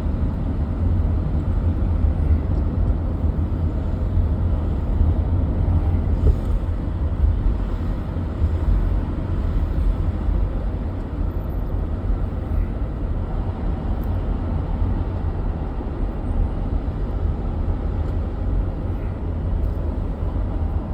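Jaguar XJS V12 coupe being driven at a steady pace: a steady low rumble of engine and road noise.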